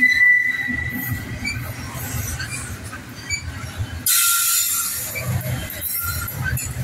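Double-stack intermodal freight train rolling past at close range, steel wheels squealing on the rail over a low rumble from the cars. A high squeal fades within the first second, and a sudden hiss comes in about four seconds in and lasts about a second.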